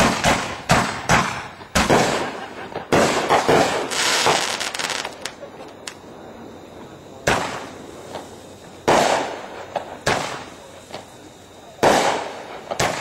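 Fireworks going off: a string of sharp bangs, each trailing off in a short echo. They come in quick clusters for the first few seconds, then at intervals of a second or two.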